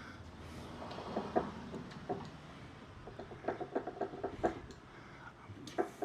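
Light clicks and taps from hand work on a small pipe fitting, with a quick run of ticks about three and a half seconds in.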